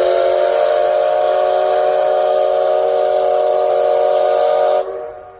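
Steam locomotive's whistle blowing one long blast: several steady tones sounding together as a chord over loud steam hiss, cut off sharply near the end.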